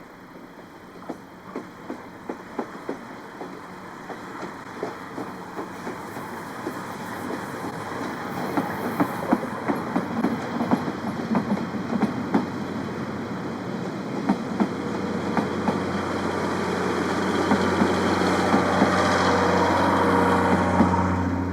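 Steam-hauled passenger train pulling out and gathering speed, its wheels clicking over rail joints more often and more loudly. A steady low hum comes in about two-thirds of the way through and is loudest near the end.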